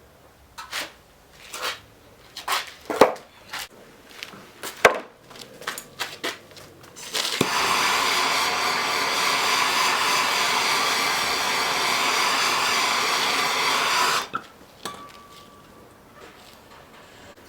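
Scattered clicks and knocks for about seven seconds, then a hand-held blower running with a steady hiss of rushing air for about seven seconds, cutting off suddenly.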